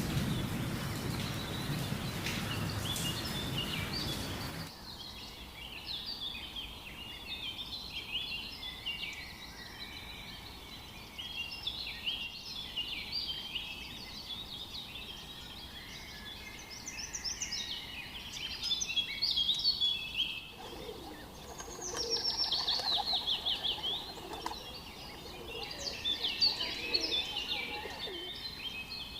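A steady noisy rumble for the first few seconds that cuts off suddenly, then several songbirds chirping and singing together, with a rapid falling trill about two-thirds of the way through.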